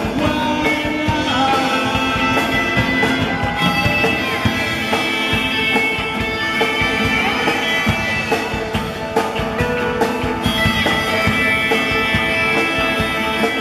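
Rock music: a guitar-led instrumental passage with a steady drum beat, between the sung lines of a song.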